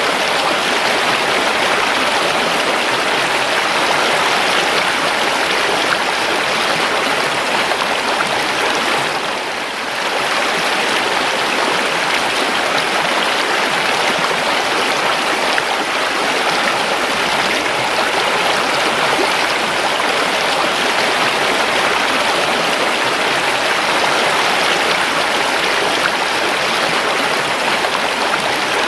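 A calm river's water flowing steadily: a continuous, even rush of running water. It dips briefly in loudness about nine or ten seconds in.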